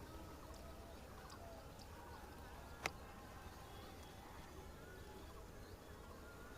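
Faint outdoor background with a light insect-like buzz, broken by one sharp click about three seconds in.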